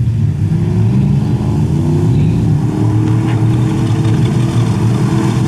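Engine of a 4x4 off-road vehicle running loud and revving, its pitch rising and falling.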